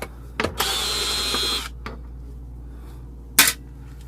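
Power drill running for about a second with a steady high whine, then a single sharp click. A steady low machine hum runs underneath.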